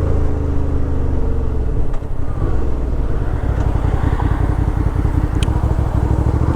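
Suzuki V-Strom 650 XT's V-twin engine dropping in revs as the bike slows to a stop, then idling with a steady low pulse.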